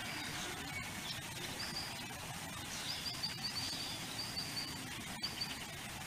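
A small bird chirping: short, high notes in quick runs of two to five, repeated several times, over a steady background hiss.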